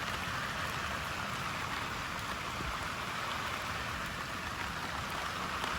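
Heavy thunderstorm rain pouring steadily, an even hiss with no single drops or impacts standing out.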